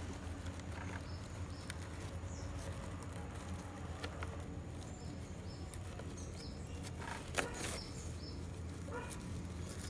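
Quiet outdoor background with a steady low hum and a few short, high bird chirps, and one sharp click about seven seconds in.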